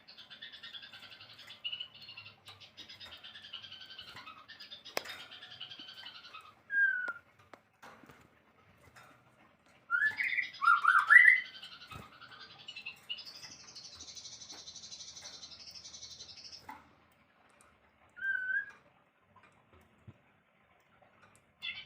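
Songbird singing a varied song: raspy chattering phrases, a few short loud whistled notes about halfway through, then a high buzzy trill, with pauses between.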